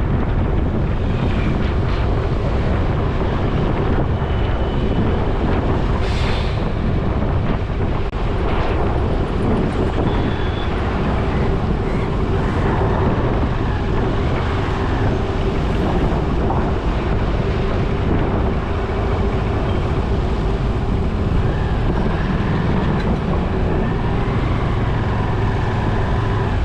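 Motorbike ride: a steady engine drone under road rumble and wind buffeting the microphone, holding even throughout.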